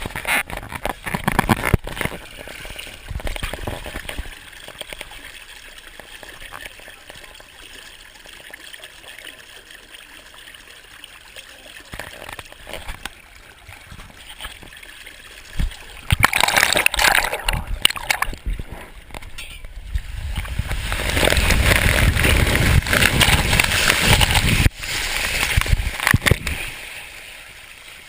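Water rushing and splashing along a waterslide as the rider slides down it. It stays fairly quiet through the middle, then grows loud and full of spray in the last third.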